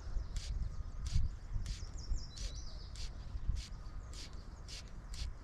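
Birds calling outdoors: short, sharp high calls repeat about twice a second, with a few chirps between them, over a low rumble.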